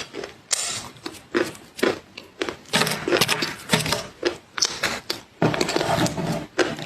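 Close-miked chewing of crunchy food: a steady run of crisp crunches, about two a second.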